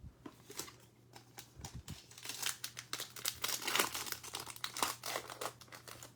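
Trading-card pack wrapper being torn open and crinkled, a dense irregular crackle that gets busier about two seconds in.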